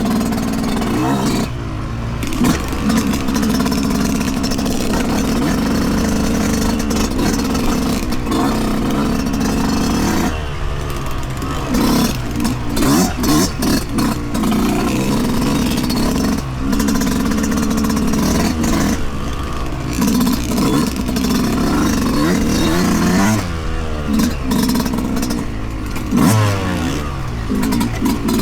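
2023 Yamaha YZ125 single-cylinder two-stroke dirt bike engine revving up and down while riding a trail. The throttle is chopped briefly several times, about every two to five seconds, and picks back up each time.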